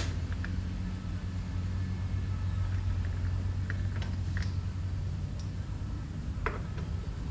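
A steady low machine hum with a handful of short, light metallic clicks and taps from hand tools working on a rusty bolt.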